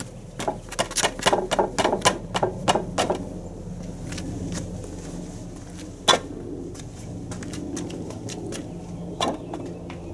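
Workshop knocks and clicks of wood and tools being handled: a quick run of sharp knocks for about three seconds, then a single louder knock about six seconds in and another near the end, over a steady low hum.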